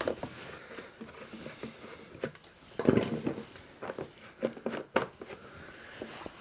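Scattered knocks and clicks of objects being handled on a bench, with one louder clunk about three seconds in.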